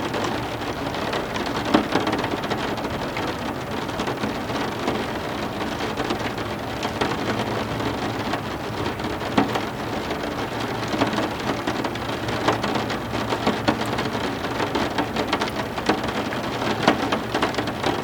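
Heavy rain falling steadily, with many individual drops striking hard surfaces close by.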